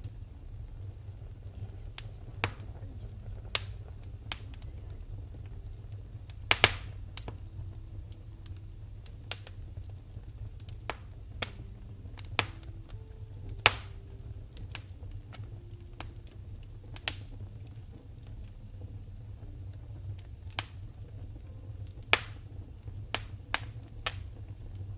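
Wood fire in a fireplace crackling: irregular sharp pops and snaps, a couple of them much louder, over a low steady rumble.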